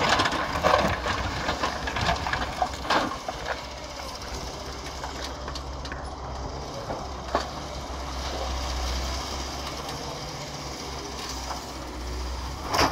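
Excavator diesel engine running steadily, with several knocks and clatters in the first few seconds, one more about seven seconds in, and a loud sharp knock near the end.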